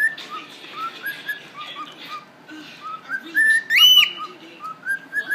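Cockatiel singing: a run of short whistled notes, then a loud upward-sweeping whistle about three and a half seconds in.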